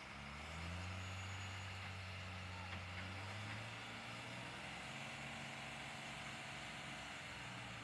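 Engine of a truck or heavy machine running steadily, a low even hum with no speech.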